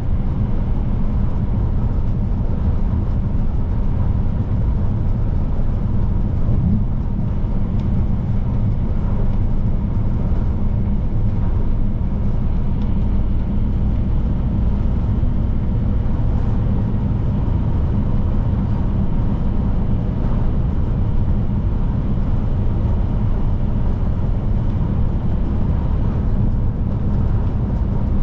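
Scania P310 truck's diesel engine running steadily at cruising speed, with road and tyre noise as it drives along the highway; the sound is an even, low drone without gear changes.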